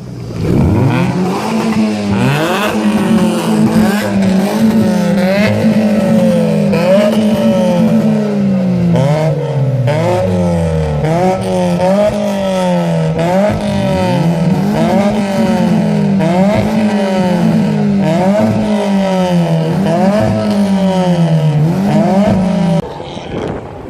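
Modified car engine revved again and again, its pitch climbing and dropping back about once a second. The revving stops abruptly near the end.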